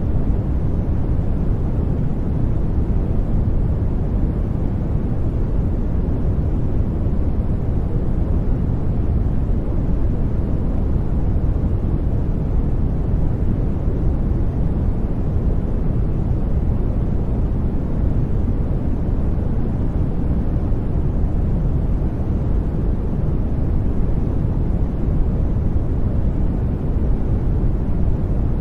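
Steady brown noise: a deep, even hiss, strongest in the bass and fading towards the highs, unchanging throughout.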